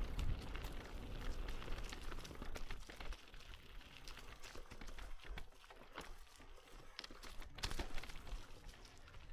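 Footsteps on a trail: irregular clicks and crunches over a low rumble.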